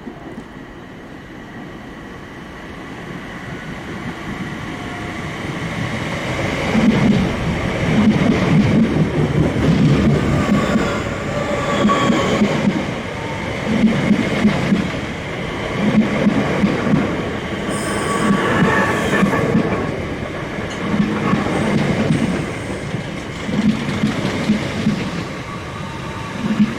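Southeastern electric multiple-unit train running into the platform, growing louder over several seconds, then its coaches' wheels thumping over the rail joints about every two seconds as they pass, with a thin wheel squeal.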